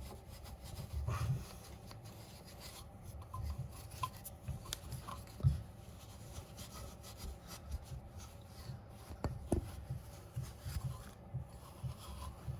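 Hand scrubbing rust off a chrome-plated spoked motorcycle wheel rim: irregular rubbing strokes, with a couple of light knocks.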